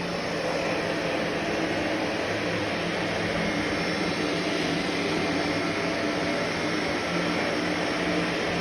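Vacuum cleaner running steadily: a constant rush of air over a motor hum, with no change in pitch or level.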